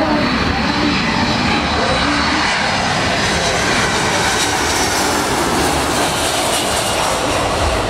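Jet airliner engines on landing approach as the plane passes by. The roar swells to a peak about five seconds in, with a high whine above it, then eases off.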